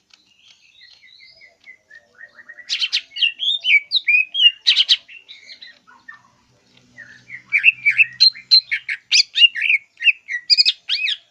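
Greater green leafbird (cucak ijo) singing: two runs of fast, varied whistled phrases and sharp chirps, the first beginning about two seconds in and the second after a short pause midway.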